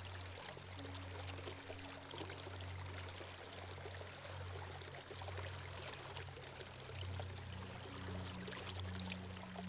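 Small stream flowing, a steady faint rush of water, with a low steady hum underneath.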